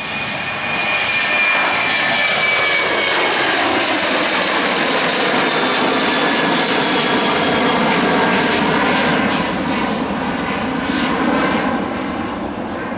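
Jet airliner passing close by: loud engine roar with a whine that slides down in pitch as it goes past, easing off near the end.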